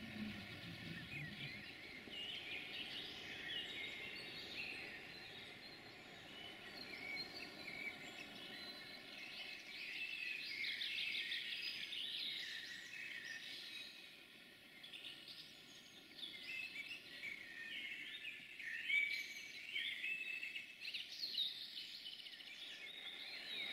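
Several songbirds singing, many short chirps and trilling phrases. A low rumble fades out in the first second or so.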